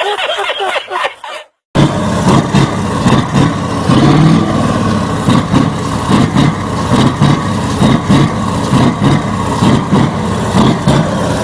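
Diesel V8 truck engine on an open pipe, idling and blipped repeatedly with short throttle revs, roughly one or two a second, with a longer rise in pitch about four seconds in. It comes after about a second and a half of laughter and a sudden cut.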